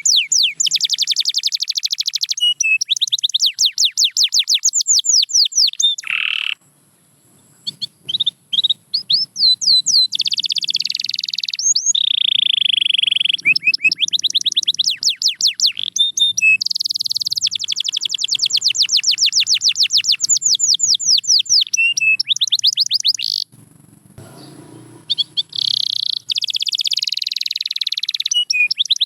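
Canary singing: long runs of fast, repeated high-pitched trilled notes, with a short pause about six seconds in and another about twenty-four seconds in.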